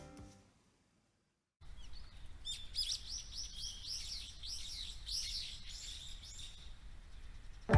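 Background music fades out into a second of silence. Then birds chirp over a low outdoor rumble, a run of quick, repeated falling notes lasting a few seconds.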